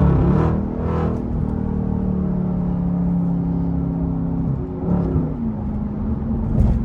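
An SRT truck's V8 engine pulling under way, heard from inside the cabin. Its note breaks and changes pitch about half a second in and again around five seconds in.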